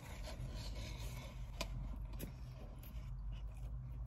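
A person chewing a mouthful of Chicken Big Mac, with faint rubbing of the cardboard box and paper wrapper in his hands and a couple of light clicks.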